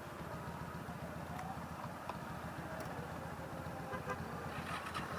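Motorcycle engine idling with a steady, fast low pulse, with a few faint clicks.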